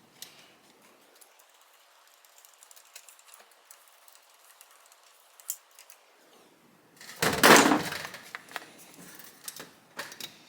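Light clicks and handling noise as the hand-control wires are worked into a motorcycle handlebar. About seven seconds in comes a loud scraping rustle lasting about a second as the wires are pulled through, then a few more clicks.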